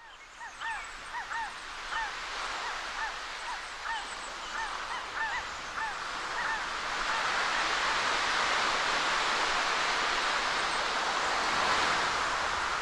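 Birds calling in a quick series of short honks, each rising and falling, through the first half. Under them runs a steady rushing noise like surf, which grows louder once the calls stop.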